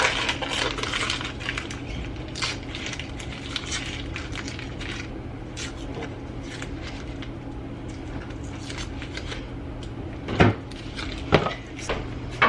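Kitchen handling sounds: a busy patch of clicks and clatter at the start, then a steady low hum with small scattered clicks, and two louder knocks of pans or dishes near the end.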